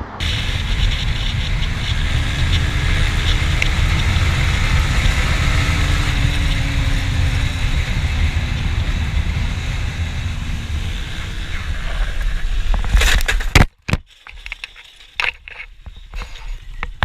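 Motorcycle running at speed, its engine pitch gliding under heavy wind noise on an on-bike camera microphone. About thirteen seconds in comes a sudden loud clatter, the likely crash into the rail, then the sound cuts off sharply, leaving scattered knocks.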